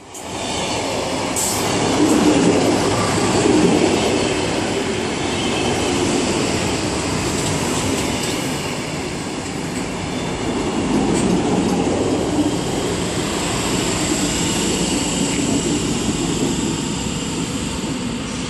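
Sm1/Sm2 electric multiple-unit commuter train pulling into a station: loud, steady wheel-on-rail rumble with a thin high-pitched wheel or brake squeal as it slows. It rises suddenly about half a second in.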